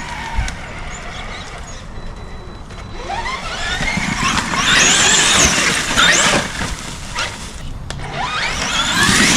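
Traxxas Xmaxx RC monster truck's electric motor whining up in pitch under throttle, in several rising sweeps from a few seconds in, with a further run-up near the end.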